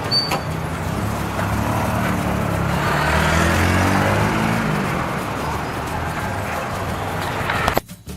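Street traffic: a motor vehicle passes close by, its engine growing louder to a peak midway and then dropping in pitch as it fades away. The sound cuts off abruptly near the end.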